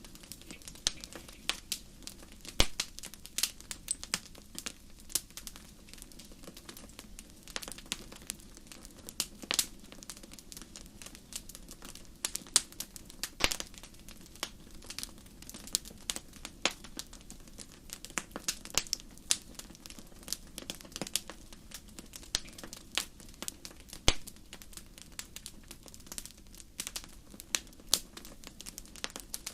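Wood fire in a fireplace crackling, with irregular sharp pops over a steady low background noise.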